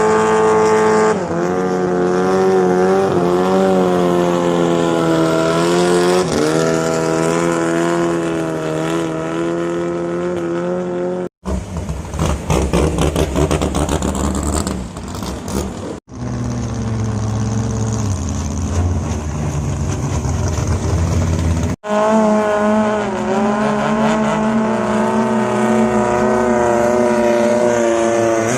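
Longtail boat engines running hard at high revs, their engine note rising and falling. The sound changes abruptly three times where short clips of different boats are cut together.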